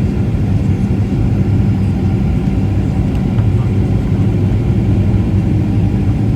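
Steady cabin noise inside a Boeing 737 in flight on approach: a continuous rumble of engines and airflow with a constant low hum.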